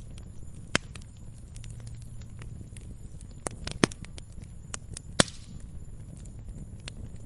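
Fireplace wood fire crackling, with scattered sharp pops, the loudest about five seconds in, over a low steady rumble.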